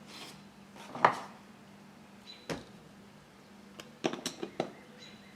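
Clicks and knocks of chainsaw parts being handled and fitted together during reassembly: a sharp knock about a second in, another halfway through, then a quick run of clicks near the end, over a faint steady hum.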